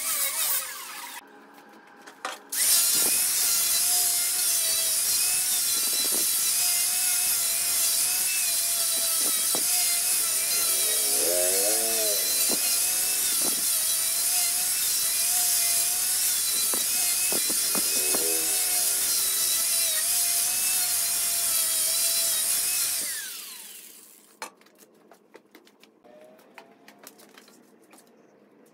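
Power tool working wood: a steady, loud hiss with a wavering whine that runs about twenty seconds and cuts off about 23 seconds in, followed by small scattered clicks and taps.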